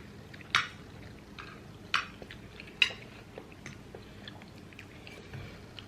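Cutlery clicking against a plate while eating: three sharp clicks, about half a second in, near two seconds and just under three seconds, with fainter small ticks between.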